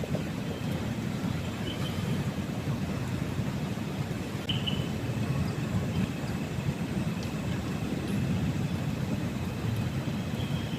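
Heavy rain falling steadily, a dense, even low rumble with no breaks.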